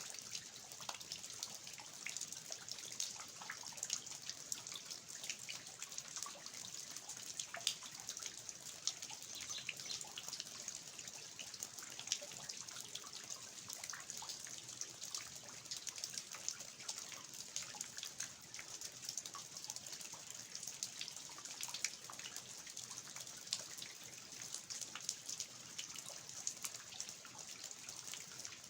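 Steady rain falling on a garden, with water dripping from the eaves: a constant hiss with many close, irregular drop taps.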